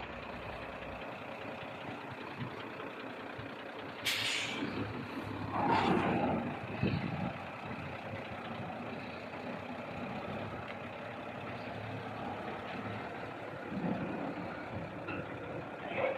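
Truck engine running steadily, with a short sharp hiss of air about four seconds in, typical of an air-brake release. This truck has just been got running again after standing unused for seven months.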